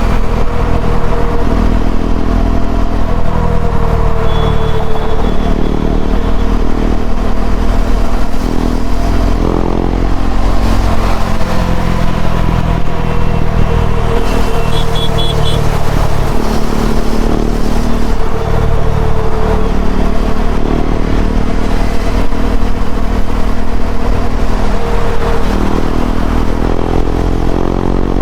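KTM Duke 390's single-cylinder engine running through an Akrapovic slip-on exhaust while riding, its revs rising and dropping back several times.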